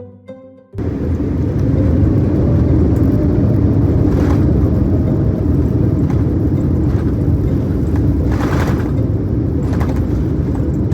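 Airliner cabin noise: a loud, steady rumble of engines and airflow, with a few brief rattles. A short music sting cuts off just before it, about a second in.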